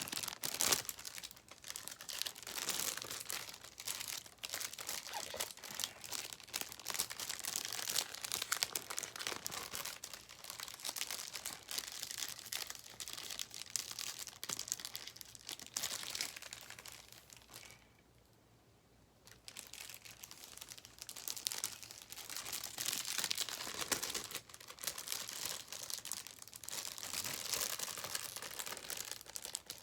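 Packaging being handled, with continuous crinkling and rustling broken by quick clicks. It stops briefly about two-thirds of the way through, then goes on.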